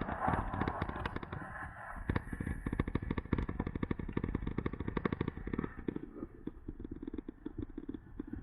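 Riding noise from an electric bike at about 19 mph: rapid, uneven knocks over a low rumble, as the moving air and road vibration hit the bike-mounted camera.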